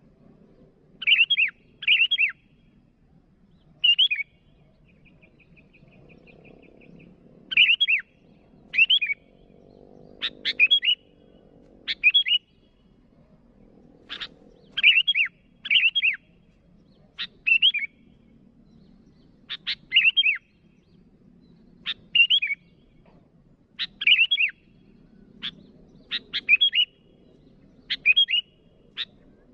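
Sooty-headed bulbul (kutilang) giving short, sharp calls, often two in quick succession, repeated every second or two. A faint rapid trill runs briefly about five seconds in.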